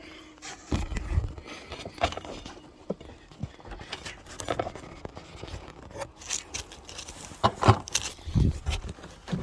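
Irregular knocks, scrapes and clatter of someone moving over boards and piled junk, with a heavier thump about a second in and another near the end.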